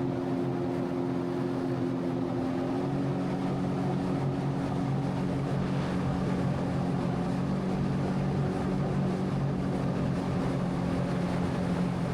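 Sea-Doo jet ski engine running at a steady cruising speed, a constant hum with an even pitch.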